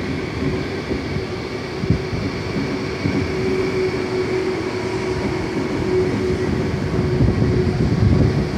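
Trenitalia Frecciarossa 1000 electric high-speed train running past on the tracks: the rumble of wheels on rail, with a steady whine held throughout.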